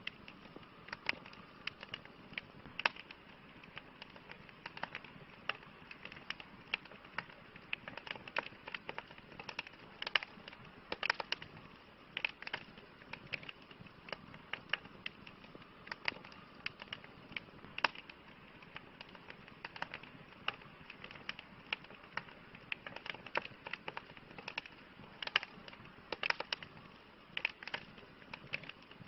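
Wood fire crackling: irregular sharp pops and snaps, several a second at times, over a soft steady hiss of burning.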